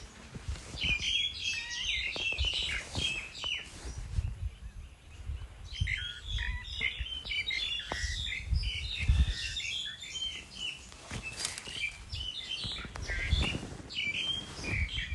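Small birds chirping and twittering in busy bursts, with pauses between them, over scattered low thuds.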